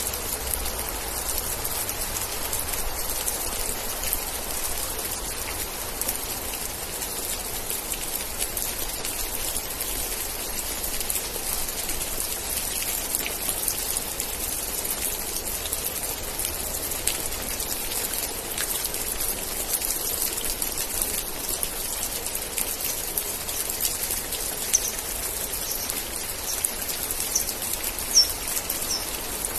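Steady rain falling, with many individual drops pattering close by. A few short, high chirps come near the end.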